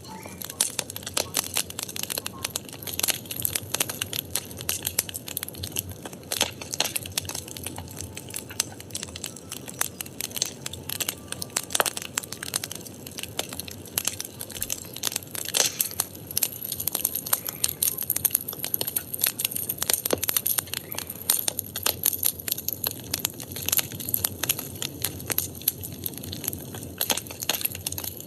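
Firewood burning in an open fire, crackling with many irregular pops and snaps over a steady hiss.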